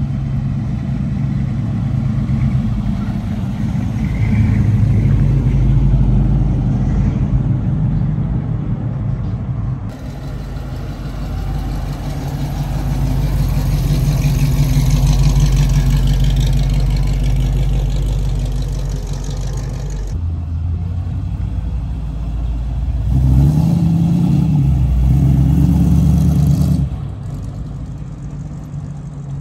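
Classic American cars driving slowly past one after another, their engines rumbling loudly. Near the end one engine is revved up and down. The sound changes abruptly at a few points.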